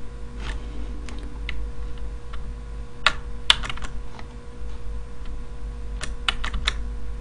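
Typing on a computer keyboard: scattered key clicks with quick runs of several keystrokes about three seconds in and again near the end, over a steady low hum.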